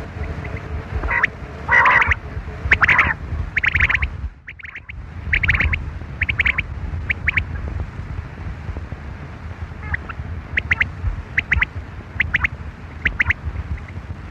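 Quail calling: short clipped notes in quick groups of two or three, repeated about once a second, over a low wind rumble.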